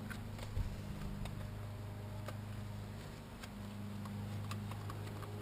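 Scattered light clicks and taps of hand tools and engine parts being handled, over a steady low hum.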